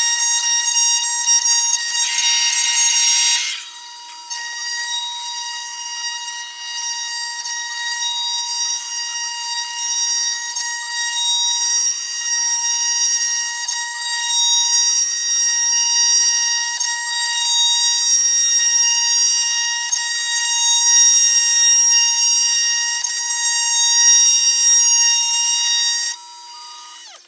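CNC 3018 Pro desktop router's spindle motor cutting wood, sped up so it comes out as a steady high whine with many overtones. The level dips sharply about three and a half seconds in and drops near the end.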